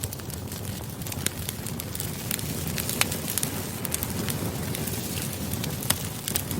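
Campfire burning: a steady low rush of flames with frequent sharp crackles and pops of burning wood, a few standing out louder.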